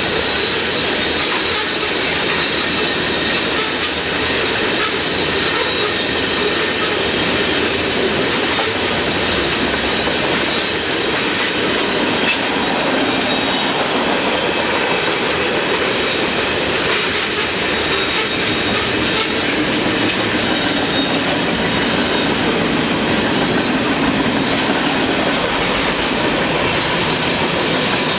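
Long freight train rolling past: steady rumble and rattle of wheels on the rails, with a thin high wheel squeal held through it.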